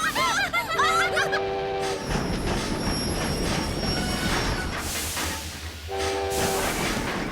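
Cartoon train sound effect: the train's whistle sounds twice, about a second in and again near the end, over the continuous rumble and clatter of the train running on the rails.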